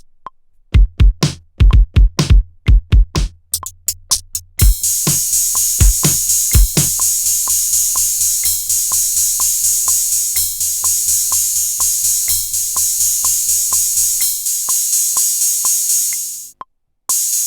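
Electronic drum-machine beat played on a Maschine+ groovebox: kick and bass hits at first, then from about five seconds in a dense hi-hat layer joins over a steady ticking pulse. The bass drops out about two seconds before the end, the beat cuts off sharply, then starts again straight away.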